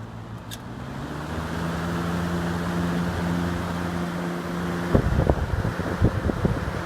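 Lakewood Kmart three-speed box fan switched to high: a steady motor hum and rush of air building up over the first couple of seconds as the blades come up to speed. From about five seconds in, irregular low buffeting thumps of the fan's airflow hitting the microphone.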